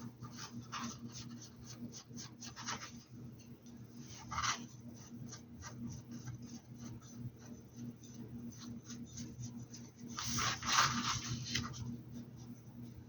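Paintbrush strokes and dabs on a hat: a run of short scratchy strokes, with a longer, louder rubbing stretch about ten seconds in. A steady low hum runs underneath.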